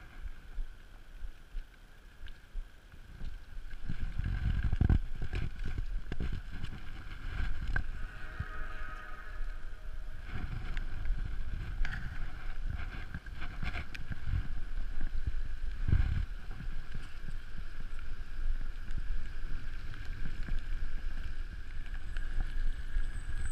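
Wind buffeting the microphone of a mountain bike descending a paved highway, a low rumble that grows stronger about four seconds in and stays.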